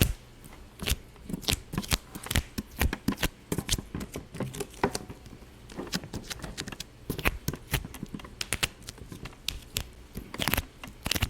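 Rapid, irregular popping and crackling: sharp pops several times a second with no steady rhythm.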